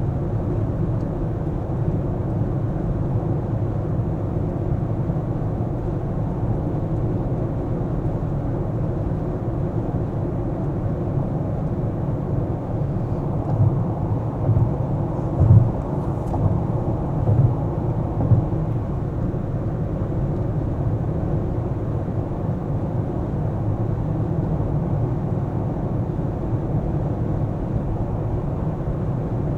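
A car driving, with its steady low engine and tyre rumble. About halfway through comes a cluster of five or six short low thumps.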